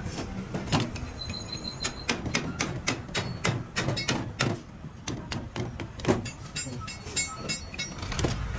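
Irregular clicks and knocks, several a second, some with a short metallic ring: metal parts and tools handled during the work on the hydraulic jack.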